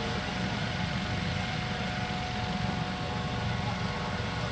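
Air ambulance helicopter running on the ground before take-off: a steady turbine whine over a low running noise, with the rotor still turning at low speed.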